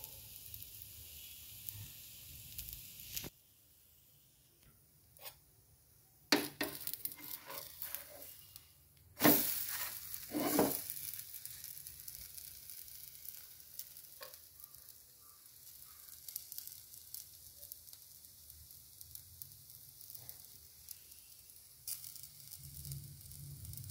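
Chilla batter sizzling on a hot tawa, with a few sharp knocks and scrapes of the spatula as the pancake is flipped about nine to eleven seconds in.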